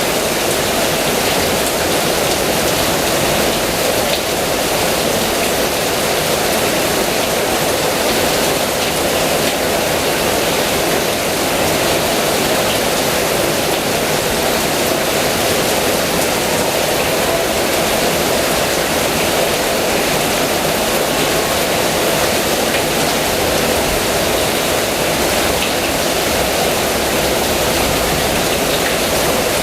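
Heavy rain pouring steadily, a dense even hiss with no separate drops or thunder standing out.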